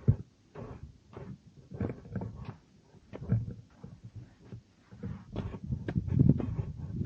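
Wind buffeting the camera's microphone in uneven gusts: a low rumble that surges and drops, with short crackles, loudest about six seconds in.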